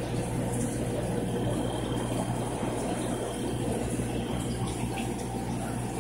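Steady hum of aquarium pumps and filters with a constant wash of running water.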